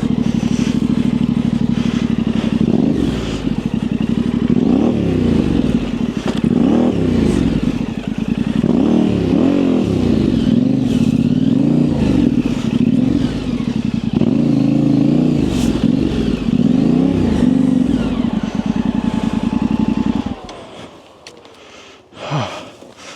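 Yamaha Ténéré 700's parallel-twin engine idling, then switched off about twenty seconds in, after which it falls quiet apart from a short clatter.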